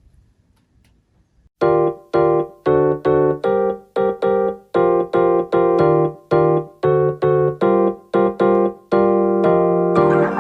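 Electric piano music starting about a second and a half in: short, detached notes and chords played in a steady bouncing rhythm.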